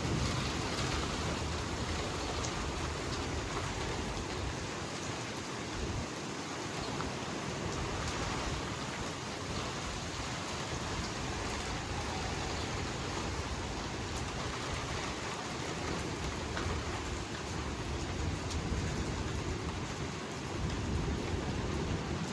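Heavy rain pouring down steadily in a passing thunderstorm, with a low rumble underneath that comes and goes.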